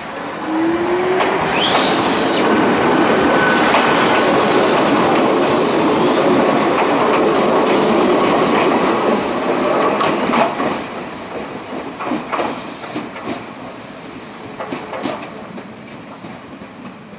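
Ichibata Electric Railway 3000 series electric train (ex-Nankai 21000 series) running close past, with a rising whine as it gathers speed at the start and a loud rumble of wheels on rail for about ten seconds. It then fades as it pulls away, its wheels clacking over rail joints.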